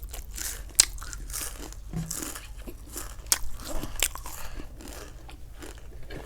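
Crisp packaged snacks being bitten and chewed close to the microphone: a run of irregular sharp crunches, the loudest about a second in.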